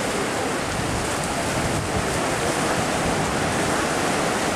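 Steady rushing noise of wind buffeting the microphone over water at the shore.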